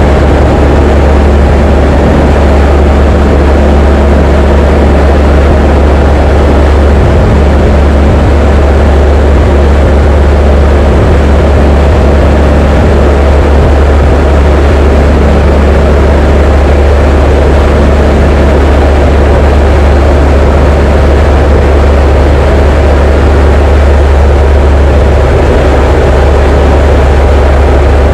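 Diamond DA20 light aircraft's four-cylinder piston engine and propeller, a loud, steady drone that holds the same pitch throughout.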